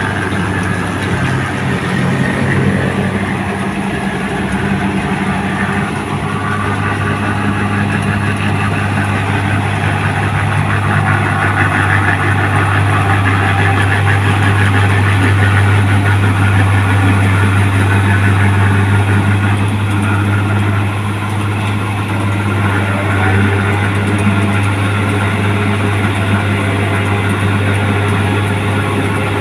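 New Holland 1545 combine harvester running steadily, its engine giving a constant deep hum under a dense machine clatter, a little louder in the middle.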